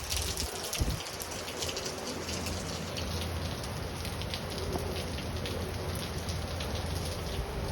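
Heavy rain falling steadily, a dense hiss with many individual drop hits close by, over a steady low rumble.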